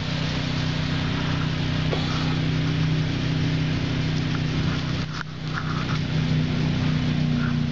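A steady low engine hum with a hiss over it, dipping briefly a little after five seconds.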